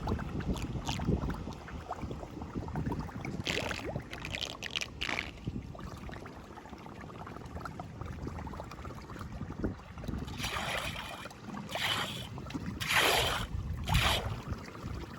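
Flood water rushing and gurgling, with wind buffeting the microphone. A few short splashes come through the rumble, a cluster about four seconds in and more near the end, the loudest of them a second or two before the end.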